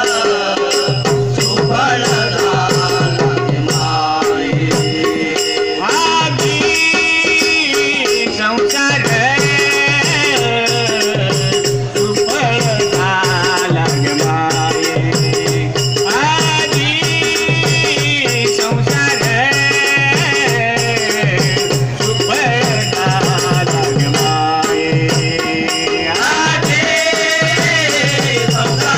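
A Marathi devotional bhajan: a melodic line sung over a held drone, with a steady hand-drum beat and jingling small-cymbal or rattle percussion.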